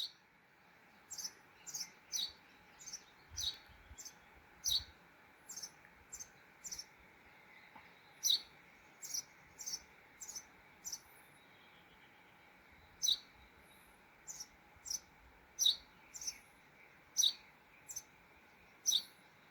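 A bird repeating short, high chirps, each a quick downward sweep, about one to two a second, with a break of a couple of seconds partway through, over a faint steady hiss.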